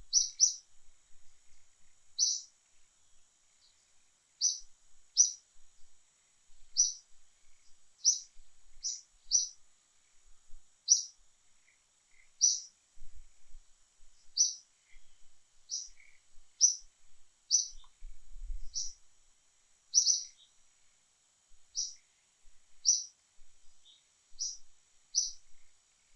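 A bird chirping: short, high single chirps repeated about once a second, over a faint steady high hiss.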